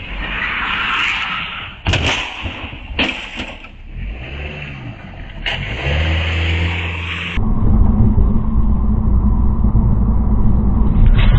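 Vehicle and road noise from a string of short clips: two sharp knocks about a second apart, then a loud, steady low rumble through the last few seconds.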